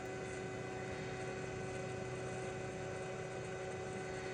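Hot air rework station blowing steadily: a constant hiss with a steady electrical hum under it.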